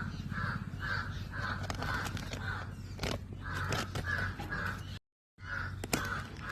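A bird giving a run of short, harsh calls, about two a second, with a few sharp clicks around three seconds and six seconds in.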